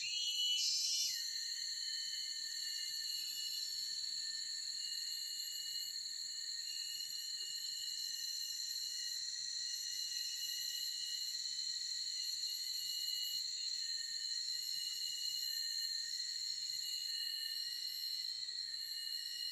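Steady chorus of insects trilling at several fixed high pitches in forest, with a brief louder call about half a second in.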